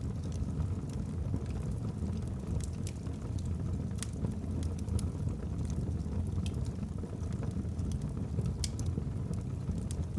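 Wood fire burning in a fireplace: a steady low rumble of flames with scattered sharp crackles and pops from the logs, the loudest pops about four seconds in and near the end.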